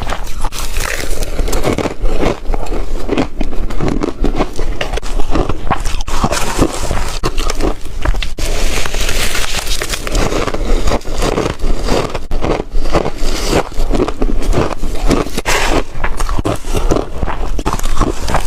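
Loud, repeated biting and crunching of chunky ice, one crackling bite after another.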